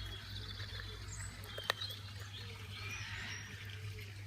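Faint bird chirps and short whistles, with one sharp click about one and a half seconds in, over a steady low hum.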